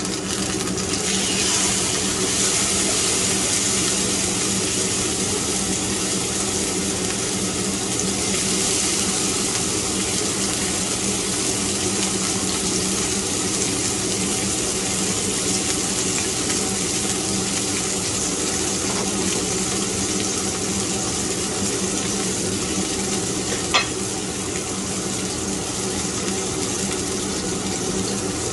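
Salmon fillet sizzling as it fries in a hot nonstick grill pan: a steady hiss, with a low hum underneath and a single sharp tap about four seconds before the end.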